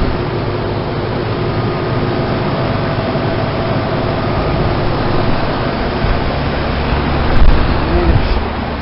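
Heat pump outdoor units running in heat mode: a steady compressor hum under the rush of the condenser fan, with a brief louder bump about seven and a half seconds in.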